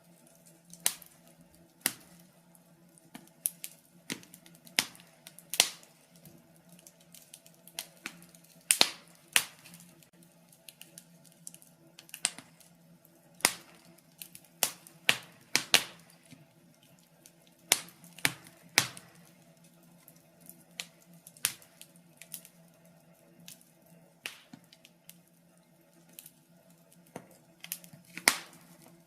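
Wood fire in a fireplace crackling: irregular sharp pops and snaps, one to a few a second, some much louder than others. A faint steady low hum sits underneath.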